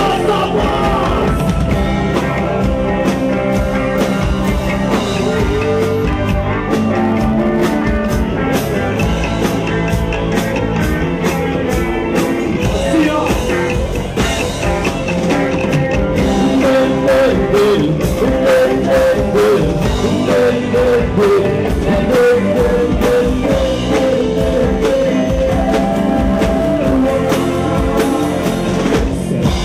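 Live rock band playing a song, with guitar and drums and a sung line over them.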